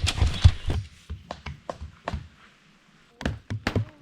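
Rustling that stops about a second in, then scattered light knocks and clicks, with a quick cluster of clicks near the end, as a tent and its gear are handled during setup.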